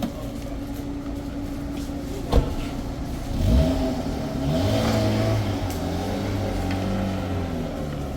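A motor vehicle's engine accelerating, its pitch rising about three and a half seconds in and then holding for several seconds, after a single sharp knock about two seconds in.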